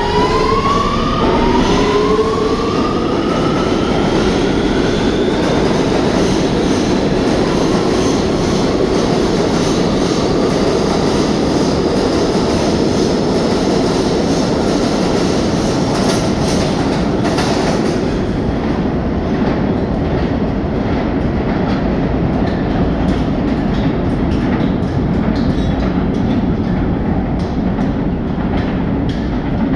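R211A subway train's electric traction motors whining in several rising tones as it pulls away and picks up speed, then a steady rumble of wheels on the rails with a light clickety-clack.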